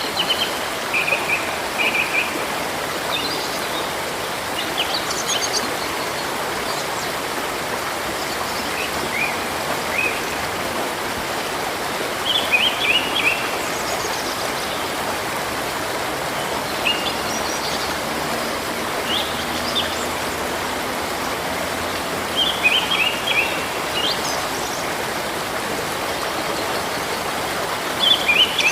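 Steady rush of running river water, with small birds chirping in short bursts of a few notes every few seconds.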